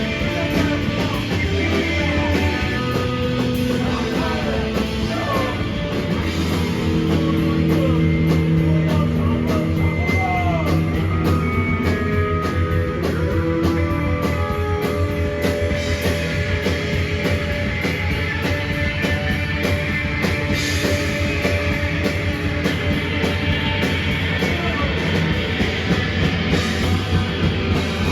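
A rock band playing live and loud: distorted electric guitars with held notes over bass and a busy drum kit, with sung vocals.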